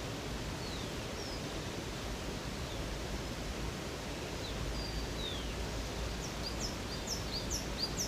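Steady rush of a river or stream under birdsong: short, high, falling whistled notes scattered throughout, then a quick run of high chirps near the end.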